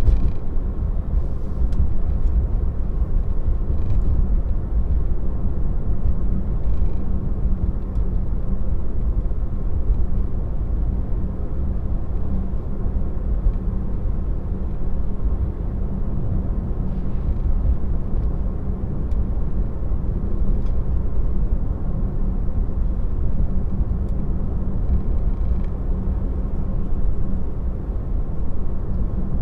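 Road and tyre noise inside a Tesla's cabin while it drives along, heard as a steady low rumble with a faint hum.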